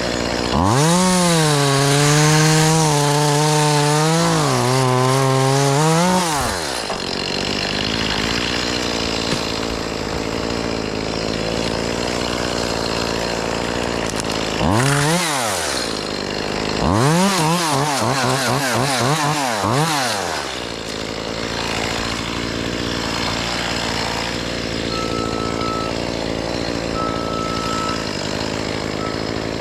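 Chainsaw running at full throttle in three bursts while cutting tree limbs: a long run near the start, a short rev about halfway, and another few-second run just after, its pitch dipping and wavering under load. Between the bursts a steady engine hum carries on underneath.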